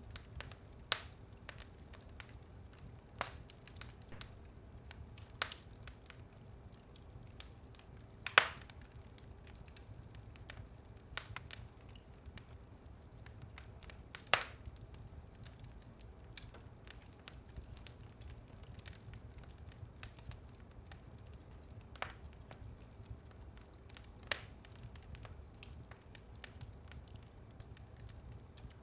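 Fire in a fireplace crackling over a low steady rumble, with sharp pops every second or two; the loudest pops come about 8 and 14 seconds in.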